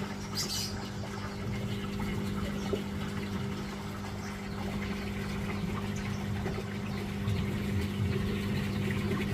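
Steady electric hum from a small motor or pump, with a running-water noise under it and a brief hiss about half a second in.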